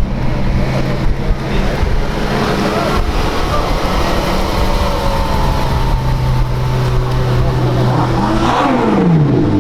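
Car engine idling steadily, then revved briefly near the end, its pitch swinging up and falling back down.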